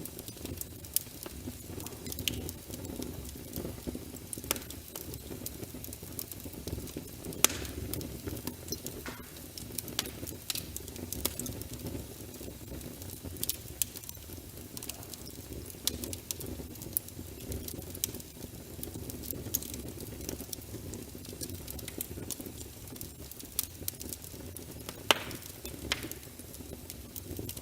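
Wood fire of burning logs in a fireplace: a steady low rumble with irregular sharp crackles and pops, a few louder pops standing out.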